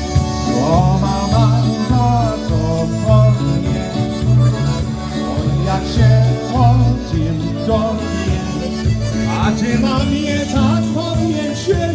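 Live polka band playing, with a steady repeating bass line under the melody.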